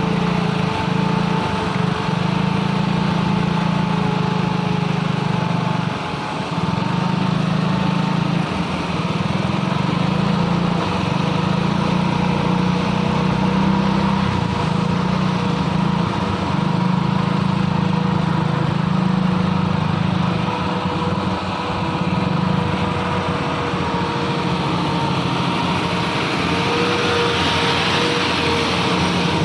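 Isuzu diesel truck engine labouring uphill under heavy load, running steadily with a high whine over it.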